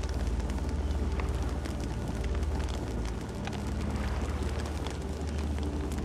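Campfire burning: a steady low rumble of flames with frequent sharp crackles and pops from the burning wood.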